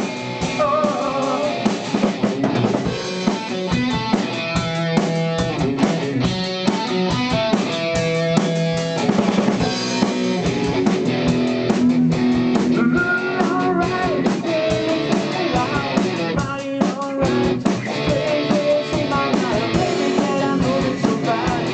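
Instrumental break of a pop-rock song: drum kit and electric guitars playing over bass, with no vocals.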